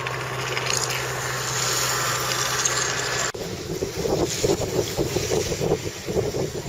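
Wind buffeting the camera microphone in a snowstorm. About three seconds in the sound cuts off abruptly and gives way to heavier, gusty buffeting.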